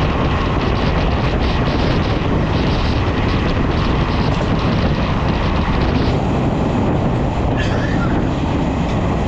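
Jan Shatabdi Express with LHB coaches running at speed: a loud, steady rumble and rush of wheels on rails, with faint clicks over rail joints in the first few seconds.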